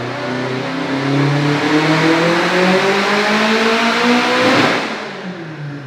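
Subaru STI's turbocharged EJ flat-four at full throttle on a dyno, revs climbing steadily through a single pull at about 32 psi of boost. Near the end it gives a short burst of noise and then dies away as the pull finishes.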